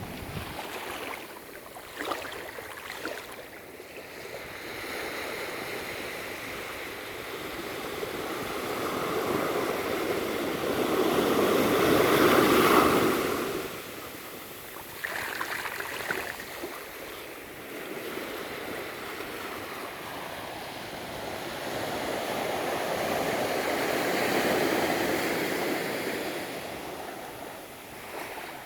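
Ocean waves breaking and washing up the beach, a steady rushing that swells to a loud peak about twelve seconds in, drops off sharply, then builds to a second, softer peak near the end.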